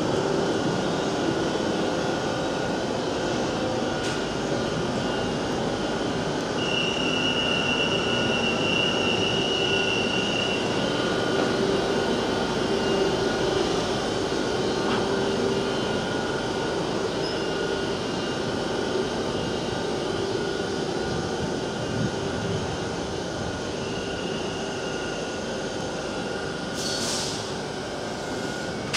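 Electric locomotive-hauled train at a station platform: a steady mechanical hum and rumble. A thin high whine stands out for about four seconds a quarter of the way in, and there is a short hiss near the end.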